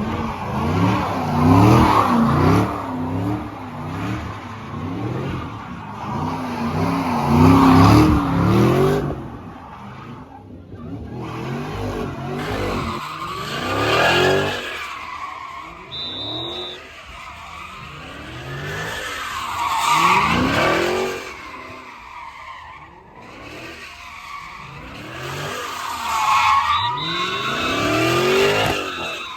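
Car engine revving hard with tyres squealing and skidding, in repeated surges that peak about every six seconds; during the first several seconds the engine pitch wavers up and down.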